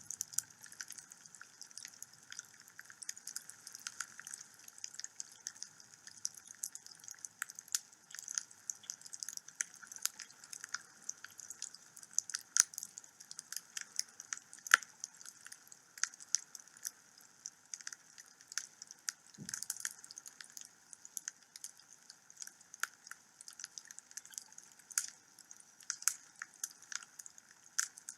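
Wood fire burning in a fireplace, crackling with irregular sharp pops and snaps over a steady hiss. A single dull thump sounds about two-thirds of the way through.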